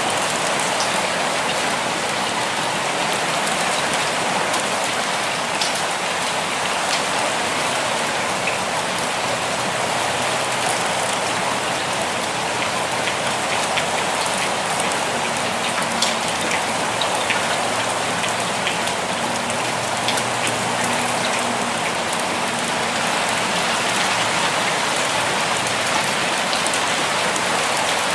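Steady, gentle rainfall: an even hiss with scattered sharper ticks of individual drops landing.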